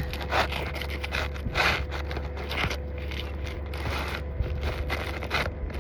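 Architectural asphalt shingle scraping and crackling against the shingles around it in irregular strokes as it is worked into place under the course above.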